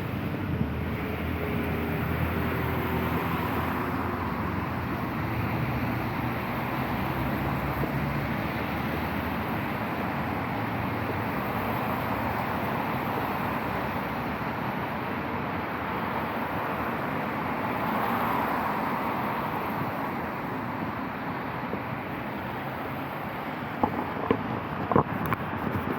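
Traffic on a wet city street: a steady hiss of tyres that swells as vehicles pass, with an engine hum for the first several seconds. A few sharp clicks come near the end.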